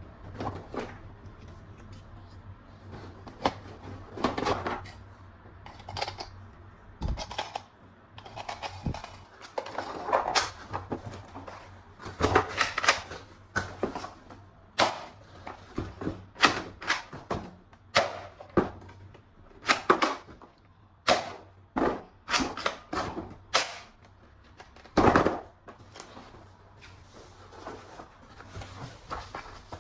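Plastic toy guns being handled and worked: an irregular series of sharp clicks and knocks, coming quickest in the middle, with a heavier knock late on.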